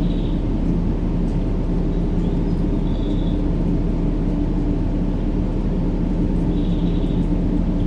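Continuous, unvarying deep rumbling noise played to soothe a baby to sleep, with its weight in the low range.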